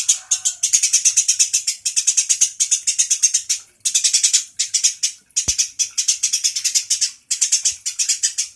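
Songbird giving a fast, dry rattling trill of about ten clicks a second, in bursts of one to three seconds with short breaks between them.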